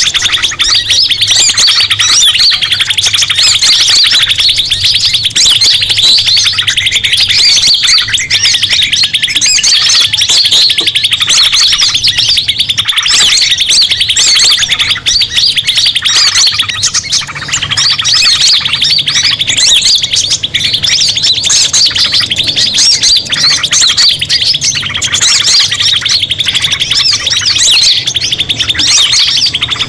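Bird-lure recording of a noisy chorus: dense, continuous, overlapping chirping and alarm-like calls of small forest birds, played to draw other birds in.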